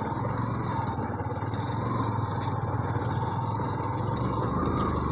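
Yamaha FZ V2's single-cylinder engine running steadily as the motorcycle rides at low speed on a rough dirt track, with faint scattered ticks over the hum.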